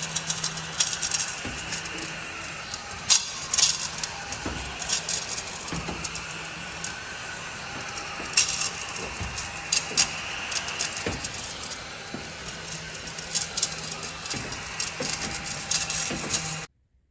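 Battery-powered mini desktop vacuum running with a steady motor hum while small particles click and rattle as they are sucked up. The sound cuts off suddenly near the end.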